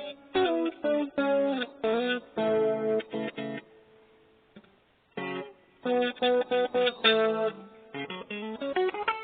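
Cheap maple-body guitar played, quick runs of plucked notes and chords with a short pause about four seconds in before the playing resumes.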